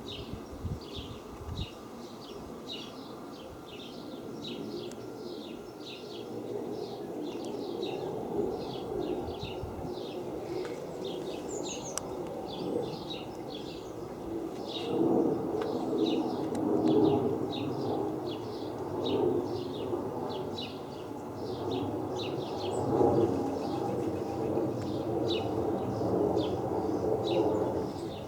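An airliner passing overhead: a low rumble that builds from about a quarter of the way in and is loudest over the second half. Above it, a bird chirps over and over, about twice a second.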